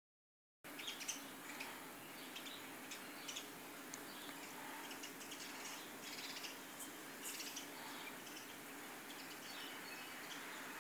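Birds chirping faintly, short high calls scattered through a steady background hiss.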